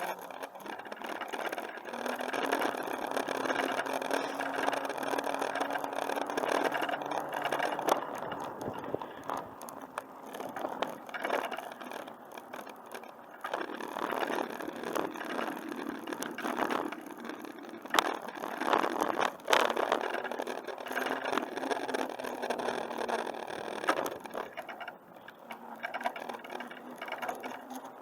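Bicycle being ridden at speed: steady rolling noise from the tyres and drivetrain, with rattles and a few sharp knocks.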